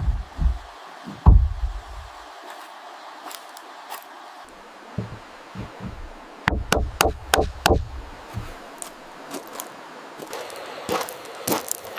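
Wood being struck in irregular knocks and thuds, as in building a shelter: a heavy thud about a second in, a quick run of knocks about halfway through, and sharper taps near the end, over a steady hiss of rain.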